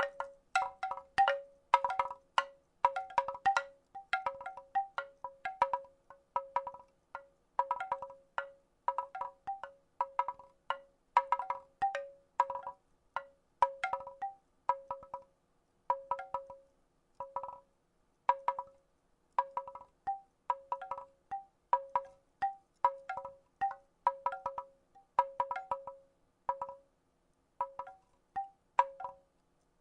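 Wooden rattle shaken in a steady rhythm: clusters of quick, hollow wooden clacks with a ringing pitch, a little more than once a second, with short gaps between them.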